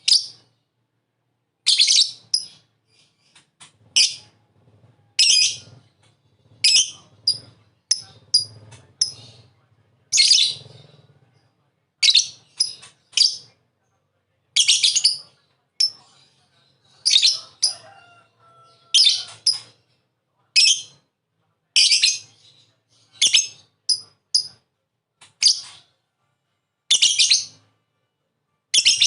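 Lovebird calling in short, shrill bursts, about one every second or two, some coming in quick pairs or threes: the lovebird's 'ngekek' chatter, used as a lure recording to set other lovebirds chattering.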